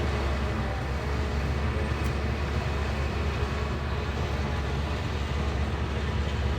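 Heavy diesel engine of a Shantui bulldozer running steadily with a low drone.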